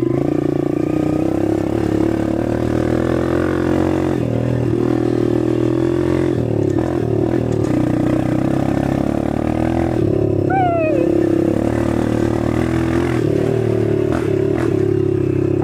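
Dirt bike engine running steadily while being ridden, with small rises and falls in throttle.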